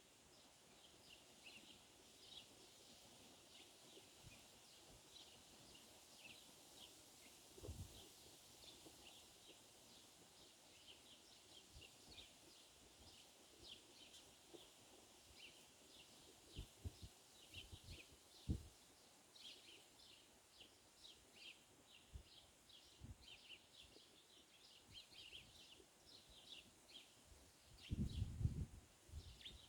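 Small birds chirping over and over, short high notes that keep coming through the whole stretch, over a faint steady hiss. A few low thumps break in, the loudest a short cluster near the end.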